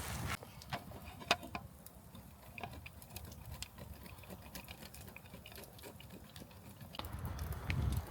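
Scattered light clicks and taps over a quiet background, with one sharper click about a second in.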